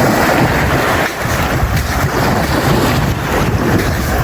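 Wind buffeting the microphone over the wash of surf, a steady rushing noise with no speech.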